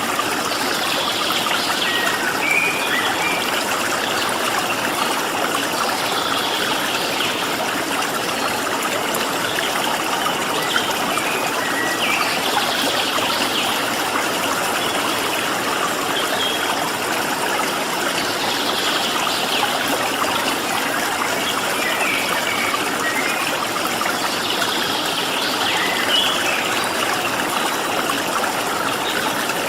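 Running water of a stream, a steady rushing hiss, with birds chirping in short calls now and then over it.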